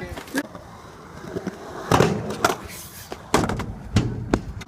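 Skateboard rolling over pavement, with several sharp clacks and slaps of the board hitting the ground in the second half.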